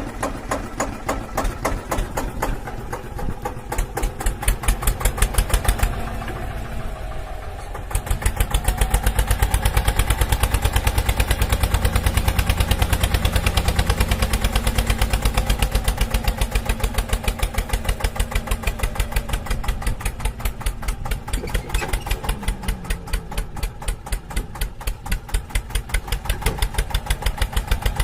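Small engine of a homemade mini tractor running with an even, pulsing beat while driving a rice thresher. It eases off briefly about six seconds in, then runs louder.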